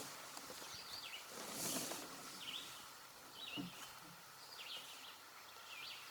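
A bird calling in short repeated chirps, about one a second, over a faint steady background hiss.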